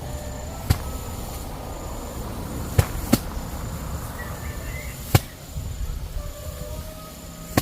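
Five sharp knocks at irregular intervals, two of them close together near the middle, over a low rumbling background. A faint, high chirp repeats steadily behind them, about twice a second.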